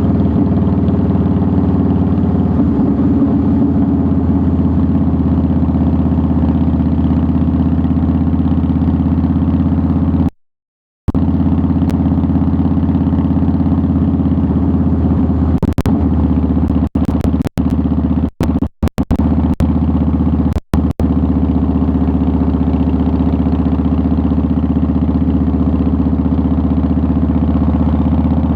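2009 Harley-Davidson Softail Deluxe's air-cooled V-twin running steadily while riding at an even speed. The sound cuts out completely for about half a second about ten seconds in, and flickers out several times in the middle.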